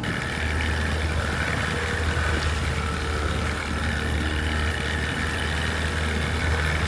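An engine running steadily at idle-like speed: a continuous low drone with a faint steady higher whine over it.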